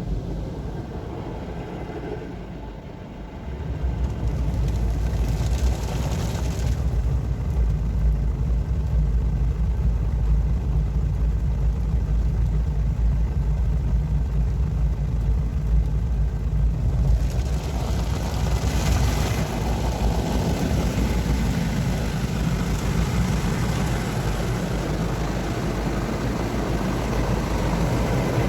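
Istobal MNEX 22 rollover car wash machinery running: a steady, loud low drone that steps up about four seconds in, with a brighter hiss joining twice.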